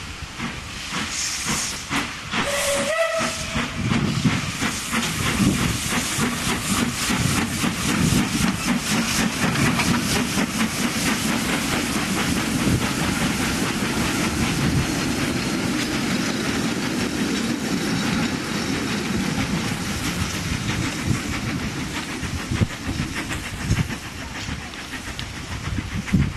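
Steam locomotive giving a short whistle about three seconds in, then chuffing with steam hiss, the exhaust beats coming faster as it works.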